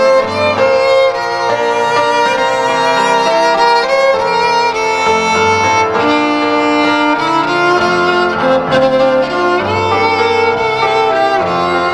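Instrumental break in a Christian song: a violin plays a slow melody of held notes with light vibrato over a steady accompaniment with bass notes.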